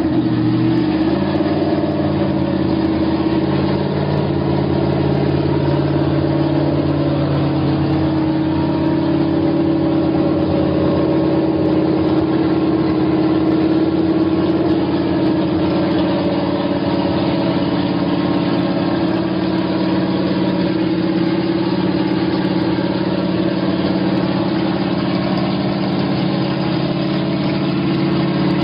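2012 COPO Camaro drag car's V8 idling steadily. Its pitch shifts and settles in the first second or so.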